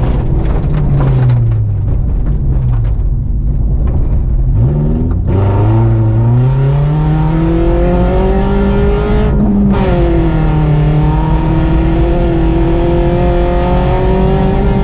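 BMW 318is four-cylinder engine heard from inside the car on a gravel road: the revs fall twice in the first few seconds, climb steadily under acceleration from about four seconds in, dip briefly at a gear change a little past halfway, then hold steady. Steady tyre and gravel noise runs underneath.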